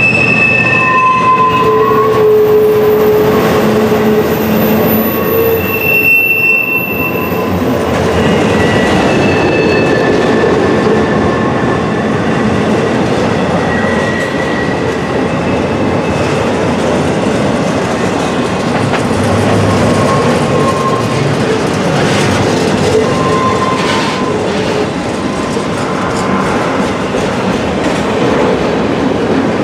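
Freight train of autorack cars passing close on curved track: a steady rumble of wheels on rail, with short, high wheel squeals coming and going, most of them in the first ten seconds. The squeal is wheel flanges grinding against the rail through the curve.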